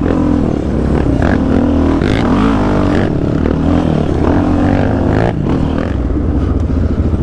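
Yamaha Raptor 700 sport quad's single-cylinder four-stroke engine running through an aftermarket full exhaust, its pitch rising and falling as the throttle is worked on the trail, with a few sharp knocks along the way.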